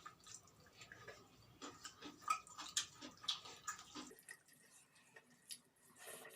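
Eating rice and chicken curry: faint, irregular small wet clicks, smacks and taps of food being mixed and chewed, a few a second, a little louder about two to three seconds in.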